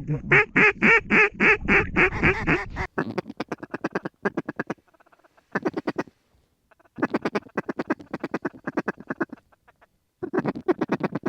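Duck calls blown in a calling sequence: a loud run of about eight evenly spaced quacks stepping down in pitch, then bursts of rapid short clucking chatter broken by pauses, as ducks are worked toward the decoys.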